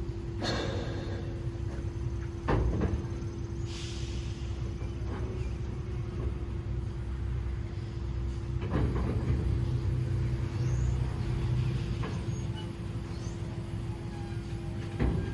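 Diesel locomotive idling with a steady low rumble and a steady hum that cuts off about nine seconds in. There is a short hiss of air about four seconds in, and a few sharp knocks.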